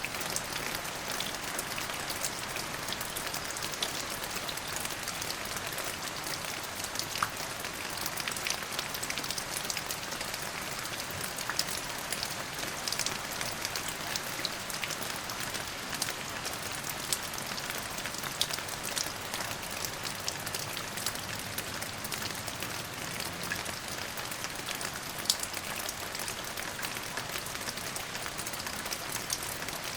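Steady rain falling on a surface: an even hiss with many individual drops pattering sharply throughout.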